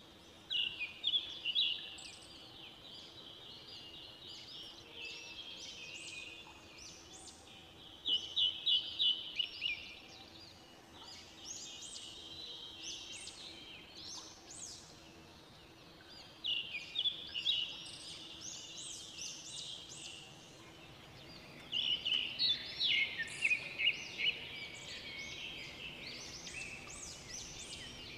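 Small birds chirping in bursts of rapid, high notes every few seconds, with a longer busy run near the end.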